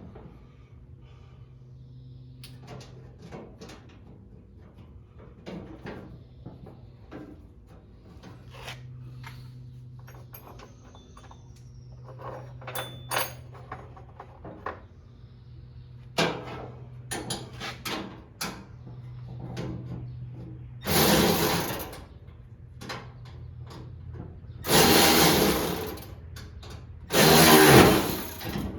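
Workshop tool noise: scattered small clicks and knocks, then three loud bursts of a second or two each near the end, over a faint steady hum.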